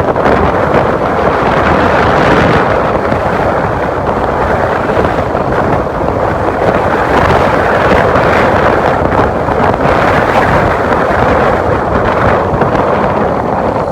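Steady, loud wind rushing over the microphone of a camera on a moving motorcycle, with road and vehicle noise underneath.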